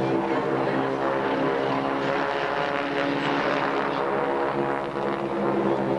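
Propeller-driven airplane flying past, its engine noise swelling in the middle and easing off again.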